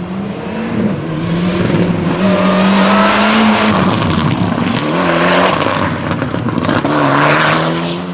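Rally car engine running hard, its pitch rising and dropping several times as it revs up and comes off the throttle.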